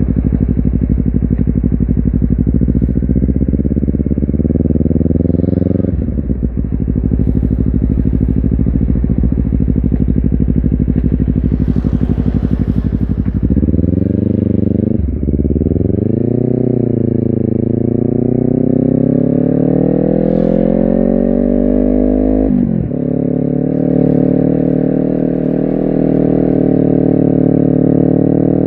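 Honda CBR250RR's parallel-twin engine and exhaust running under load. It holds steady revs at first, then climbs in revs through the gears, each gear change briefly cutting the sound, about six seconds in, around fifteen seconds and again near twenty-three seconds.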